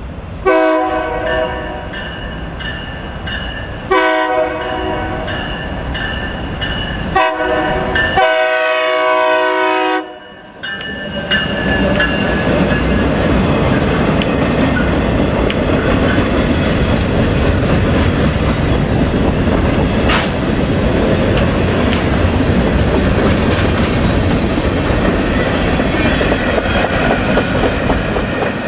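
Freight locomotive horn sounding the grade-crossing signal, two long blasts, one short and one long, over the first ten seconds. Then the freight cars roll past in a steady loud rumble with the clatter of wheels on the rails.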